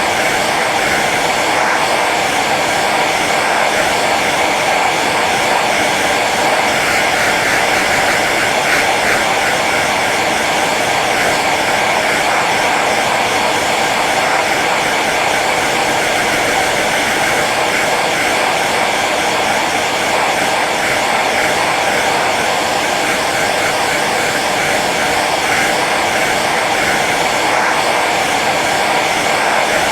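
Hair dryer running steadily on its low setting: an even blowing whoosh of fan and airflow, with no change in speed.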